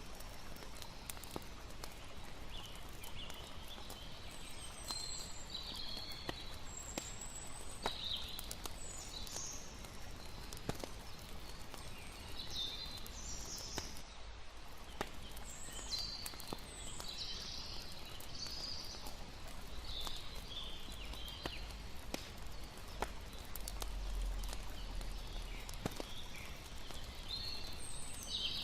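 Layered campfire night ambience: a fire crackling with frequent sharp pops over a steady hiss, and high chirping calls coming and going throughout.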